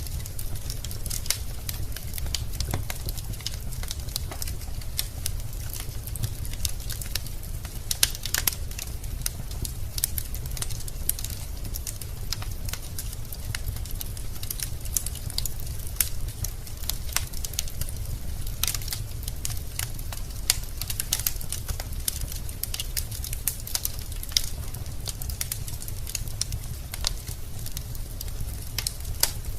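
Logs burning in a fireplace, crackling with irregular sharp pops and snaps over a steady low rumble.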